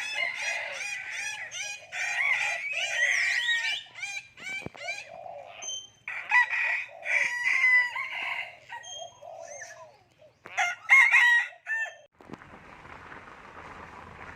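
Common hill myna calling: runs of short, quickly repeated squawks and whistles in several bursts with brief gaps. About twelve seconds in the calls stop and a steady hiss takes over.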